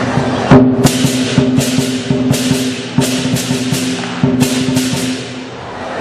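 Lion dance percussion: a big drum beaten in a quick, uneven rhythm with ringing cymbal clashes, starting about half a second in and dying away near the end.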